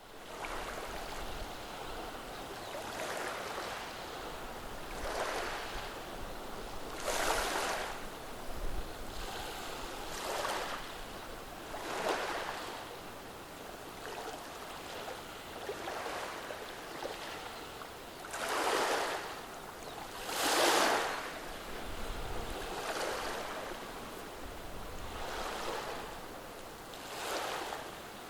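Small, calm sea waves washing over a beach of rounded cobbles. Each wave comes in as a hissing swell that rises and fades every couple of seconds, with a few louder surges among them.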